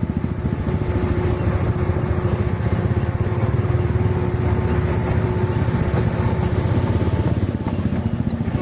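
Truck's diesel engine running hard under load as the truck is forced forward up a slippery climb. A steady whine rides over the engine's rapid pulsing until about six seconds in.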